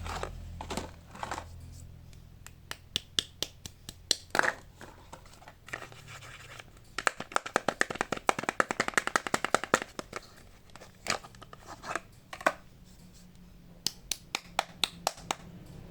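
Soap packaging being opened by hand: sharp scratches and tearing of the wrapping, with a quick run of rapid scratching strokes in the middle.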